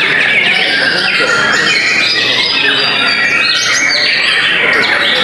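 Dense chorus of many white-rumped shamas (murai batu) singing at once: loud, overlapping whistles, trills and rapid chattering phrases with no pause.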